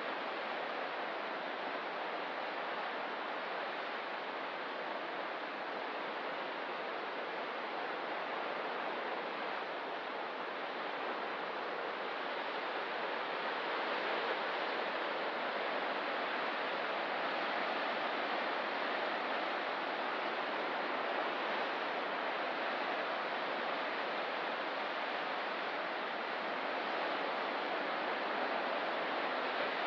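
Ocean surf: a steady, continuous wash of breaking waves with only slight slow swells in level, no distinct single wave crashes.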